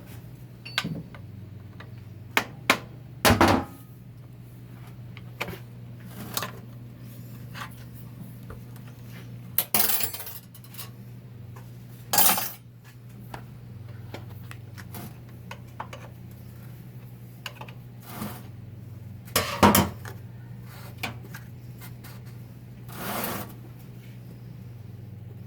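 Scattered metallic clinks and knocks of 4L60-E transmission parts and hand tools being handled during a teardown, the loudest about 20 seconds in, over a steady low hum.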